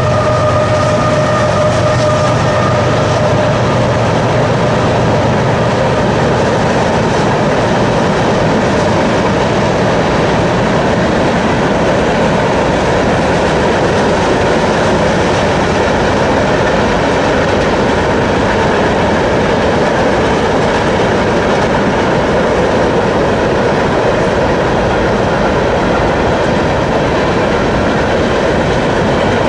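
Railcars of a train rolling past close by: a loud, steady rumble and rattle of wheels on the rails, with a faint high tone fading out in the first few seconds.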